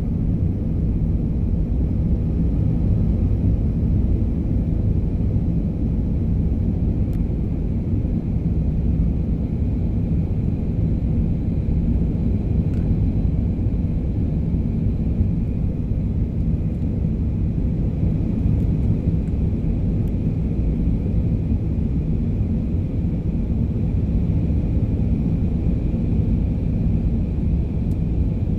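Airbus A320 in flight heard from inside the cabin: a steady low rumble of engines and airflow with a faint high whine above it.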